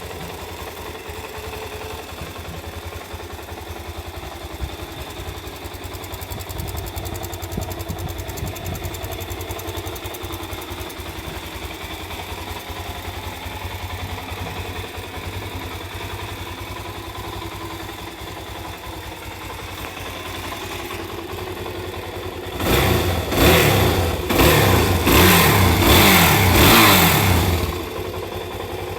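Suzuki DR-Z400S single-cylinder four-stroke engine idling steadily through its stock muffler, then blipped hard on the throttle about five times in quick succession near the end.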